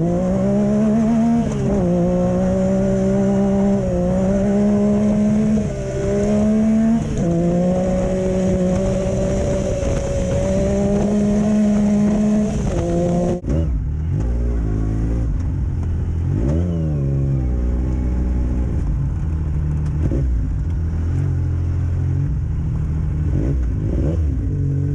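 Vehicle engine running hard, its pitch rising and falling with the throttle. About thirteen seconds in the sound cuts abruptly to a different, lower-pitched engine running, with a few quick revs.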